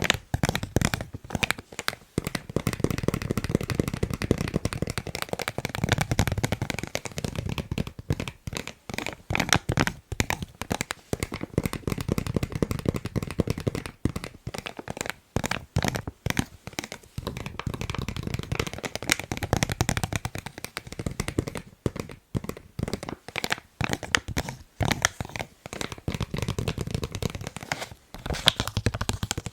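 Fast finger tapping on a face mask: dense, rapid taps with a crinkly rustle.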